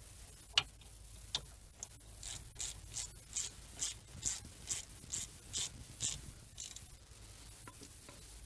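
Ratchet wrench being worked in short, even strokes, about two a second, its pawl clicking on each back-swing as bolts are run in, with a couple of single clicks first.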